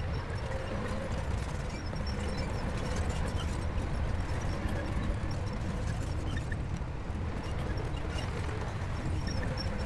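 Shantui crawler bulldozer's diesel engine running steadily with a low rumble, with light clicking and clatter from the machine as it works.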